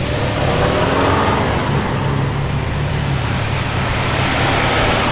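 Car engine running steadily as a car rolls past at low speed, with the low, even note of an idling or gently driven engine and road noise around it.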